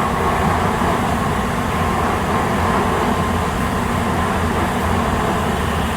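Steady rumble of a Shinkansen train at a station platform, with a faint steady hum above it.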